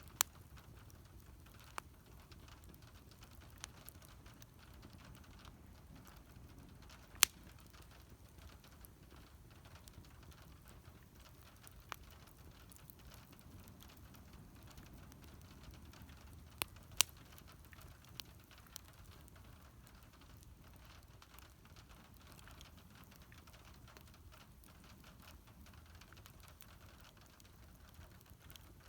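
Wood fire burning with a faint low rumble and scattered crackles, now and then a sharp pop; the loudest pop comes about seven seconds in, and two more follow close together a little past the middle.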